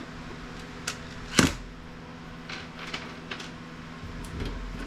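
A few sharp clicks and knocks of small metal parts and tools being handled while electronic equipment is taken apart. The loudest knock comes about a second and a half in. A steady low hum runs underneath.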